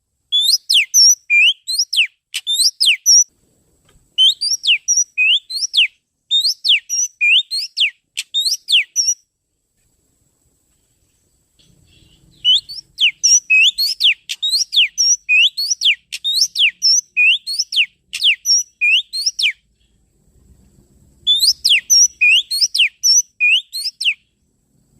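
Oriental magpie-robin (kacer) lure call: fast runs of sharp, rising whistled notes, several a second, in bouts of a few seconds separated by short pauses.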